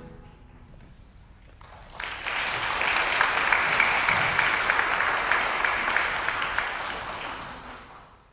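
Audience applause after a piano piece ends: about two seconds of quiet, then clapping starts suddenly, holds steady and fades away near the end.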